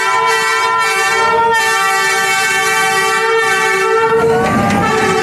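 Diesel passenger train sounding its horn, a chord of several steady tones held for about four seconds with brief dips, as it runs down the narrow street. About four seconds in, the locomotive passes close by and the low noise of its engine and wheels comes up.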